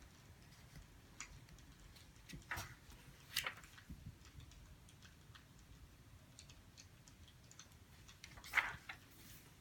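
Faint crackling of a wood fire: scattered small ticks and pops at no steady rhythm, with louder pops about two and a half and three and a half seconds in, and the loudest near the end.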